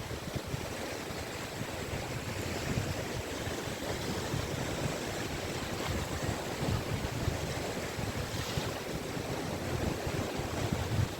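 Sea waves breaking and washing on a beach in a continuous surf wash, with wind buffeting the microphone in the low end.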